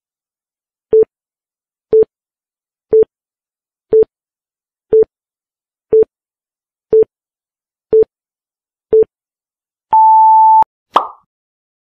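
Quiz countdown-timer beeps: nine short, identical beeps one second apart, then a longer, higher-pitched beep as the timer reaches zero. A brief sound effect that dies away quickly follows about a second later.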